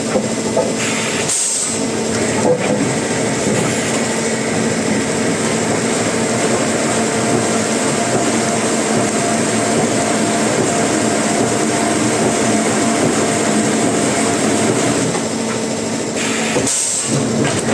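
Wood-processing machinery running steadily: a dense mechanical clatter over a constant hum and a high whine, briefly dropping out about a second and a half in and again near the end.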